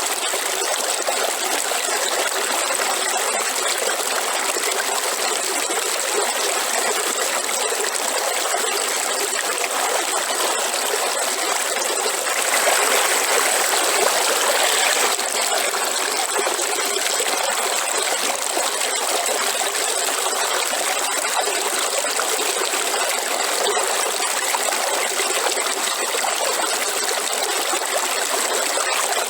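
Waterfall: water falling and splashing in a steady rush, a little louder for a couple of seconds around the middle.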